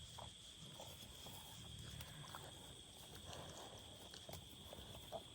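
Near silence: a faint steady high-pitched hum with a few soft taps.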